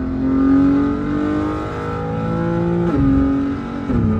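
BMW M4 Competition's twin-turbo inline-six accelerating hard with a rising engine note, upshifting about three seconds in and again near the end. Each shift drops the pitch sharply with a short crack, and the engine settles to a steady lower note at the end.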